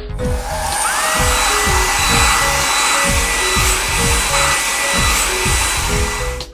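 A steady rushing, hissing noise like a blower. About a second in, a whine rises and then holds steady. Background music with a steady beat plays underneath.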